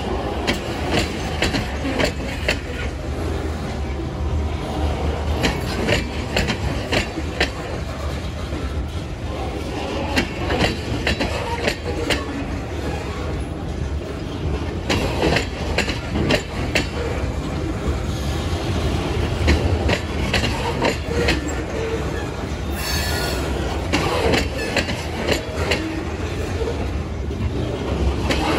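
Freight train of covered hopper cars rolling past at a road crossing: a steady low rumble with irregular clacks and knocks of steel wheels over the rail joints and crossing. A brief high squeal about two-thirds of the way through.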